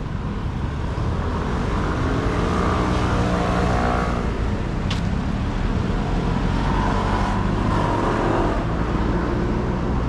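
Road traffic: a steady low rumble of passing vehicles, with a nearer engine passing between about two and four seconds in and another near the end.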